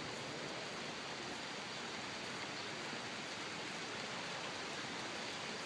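Rain falling steadily, an even hiss with no separate drops or knocks standing out.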